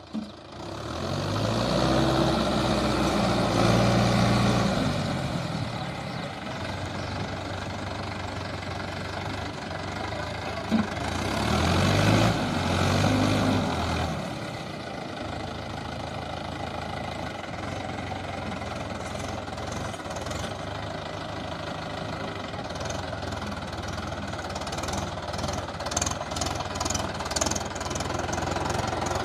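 Mahindra tractor's diesel engine running, speeding up twice and dropping back, then settling to a steady idle. A few light clicks come near the end.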